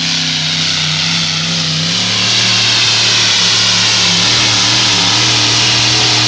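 Pulling tractor or truck engine running at full throttle under load. It gets louder and rises slightly in pitch about two seconds in.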